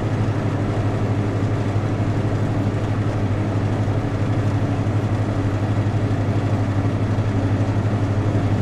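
A vehicle engine running steadily, a low drone with a fast, even pulse that does not change.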